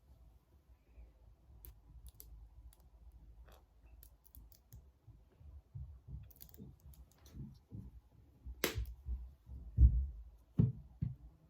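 Light clicks, taps and soft knocks of small objects being handled, with one sharper click near the end and a few heavier knocks just after it.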